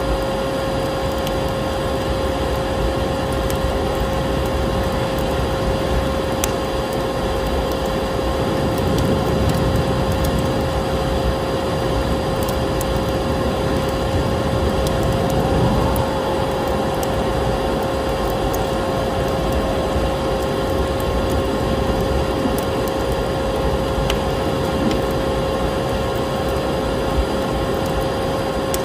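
A vacuum cleaner running steadily with a constant whine, mixed with the crackling of a wood fire in a fireplace, with scattered sharp pops.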